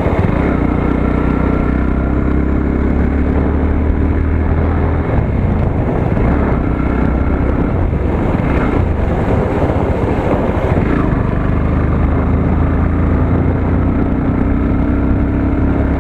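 Motorcycle engine running while riding, with wind and road noise over it. The low engine note weakens from about five seconds in and steadies again near twelve seconds.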